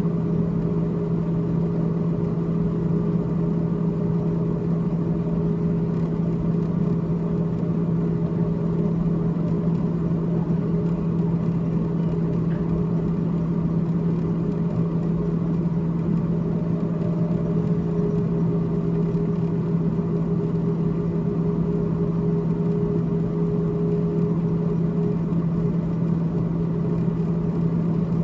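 Freezer fan of a GE GTH18XCTZRBB refrigerator running with a steady, unchanging hum and whir.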